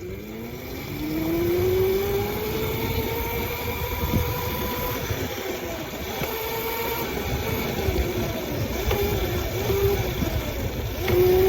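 A small motorbike's motor whining as it pulls away: its pitch climbs over the first few seconds, then holds fairly steady with small dips, rising again near the end. A low rumble runs underneath.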